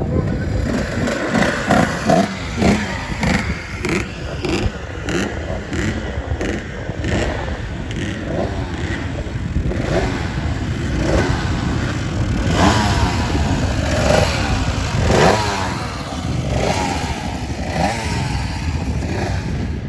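Motorcycle engines running and revving, their pitch rising and falling many times over a steady mechanical din.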